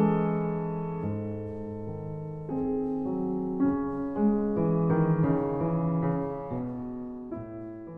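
Background piano music: slow sustained chords, fading out near the end.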